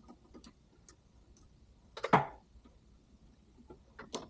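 Light metallic clicks and taps of engine parts being handled and taken apart, with one louder clack about two seconds in.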